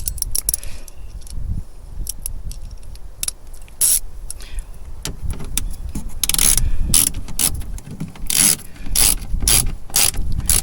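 Hand ratchet tightening a bolt inside a car door, the pawl clicking on each back-stroke in short rasping runs, coming faster and closer together in the second half.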